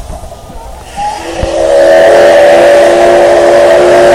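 JNR Class C61 steam locomotive's steam whistle blowing. It sounds about a second in as a chord of several steady tones, swells to full loudness within a second and then holds one long, loud, unbroken blast.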